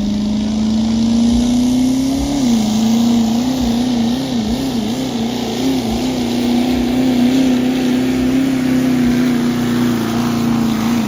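Pro street diesel pickup engine running hard under load while pulling a sled. The revs climb, drop sharply about two and a half seconds in, waver up and down for a few seconds, then hold steady.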